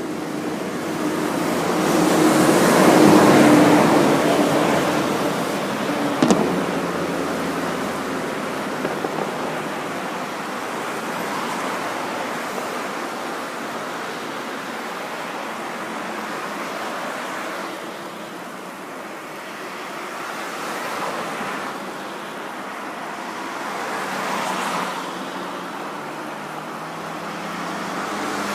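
Road traffic passing: a vehicle swells up and fades away about two to four seconds in, followed by quieter passes later on. There is one short sharp click a little after six seconds.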